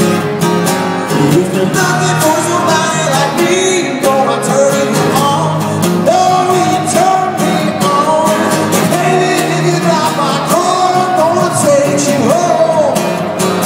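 A live band playing an upbeat pop-rock song, with singing over it.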